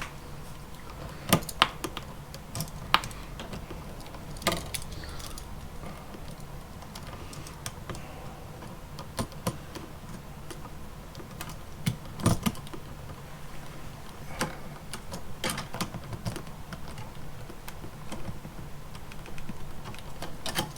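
Irregular small clicks and metallic taps of pliers and copper wire as the wire ends are bent into hooks and fitted onto a light switch's terminal screws, over a low steady hum.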